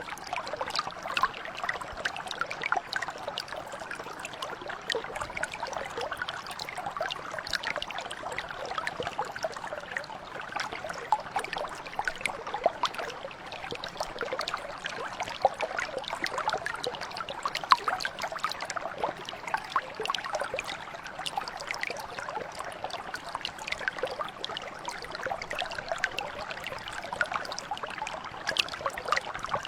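Mountain brook flowing and trickling over stones, a steady babble of water with many small splashes.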